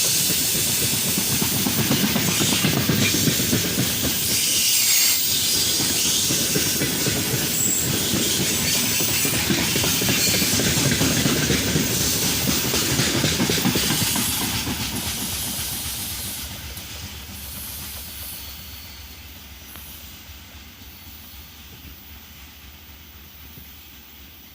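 Freight train wagons rolling past, wheels clattering over the rail joints, with some hiss and wheel squeal. The sound starts fading about 14 seconds in as the train moves away.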